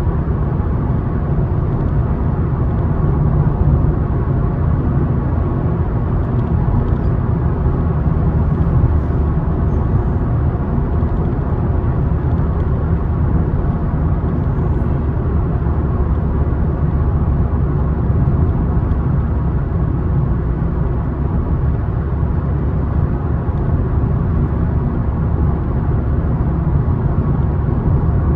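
Car in motion at steady speed: a continuous low drone of road and tyre noise with the engine running underneath.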